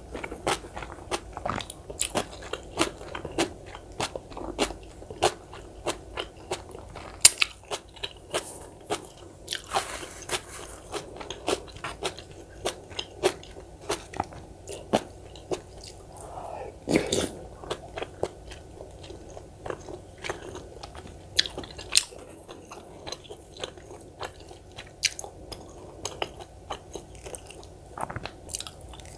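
Close-miked eating sounds: crisp, wet crunching and chewing, several crunches a second, of the kind made by biting into cubed radish kimchi (kkakdugi), with a brief slurp-like noise around ten seconds in.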